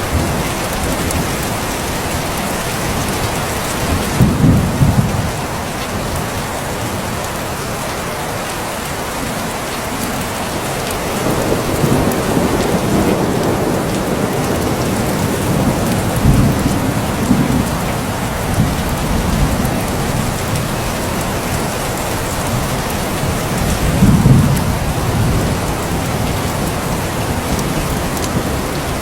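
Steady heavy rain falling, with low rolls of thunder swelling up several times, the loudest about four seconds in and again near the end.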